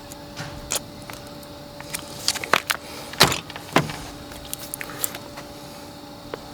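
A series of irregular knocks and clinks, the loudest few in the middle, over a faint steady hum.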